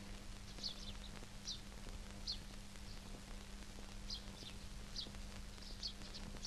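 Small bird chirping: short, high chirps, roughly one or two a second at irregular intervals, over a steady low hum.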